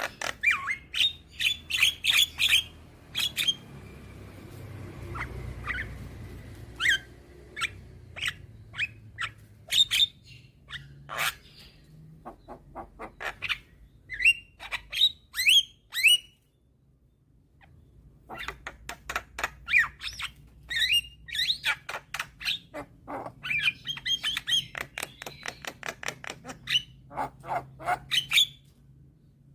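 Javan myna (jalak kebo) singing in quick runs of short, sharp chirps, whistles and harsh squawks, breaking off briefly a little past the middle.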